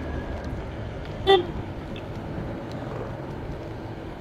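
Motorcycle engine running steadily under way, with road and wind noise, and a single short horn toot about a second in.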